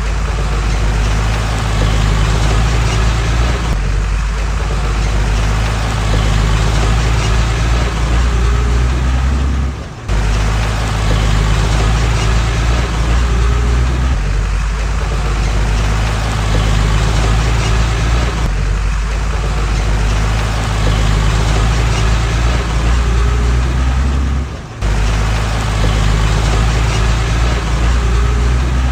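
Heavy earth-moving machinery's diesel engine running steadily with a deep rumble, the sound breaking off briefly twice.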